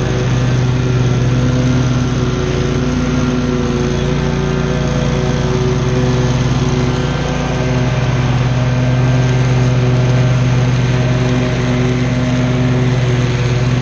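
Commercial lawn mower's engine running steadily at working speed while cutting tall grass, with a slight dip in pitch and level about halfway through.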